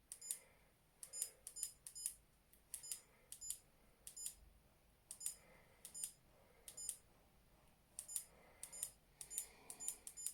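Digital torque wrench beeping: many short, high-pitched electronic beeps in quick, irregular runs while it is set to torque the engine's main bearing bolts.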